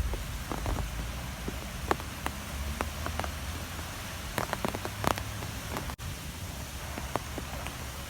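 Strong wind with a steady low rumble and hiss, and irregular sharp ticks and taps scattered through it.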